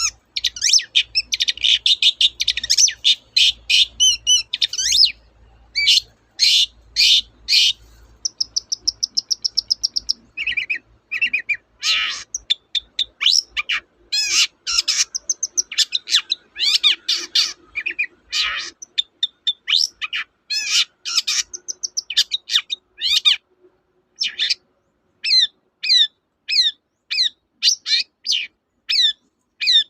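Long-tailed shrike (cendet) singing a loud, fast and varied song of sharp chirps and short whistled notes, with a steady buzzy trill about eight seconds in. This is the chattering song of a bird in full voice, with phrases copied from other birds.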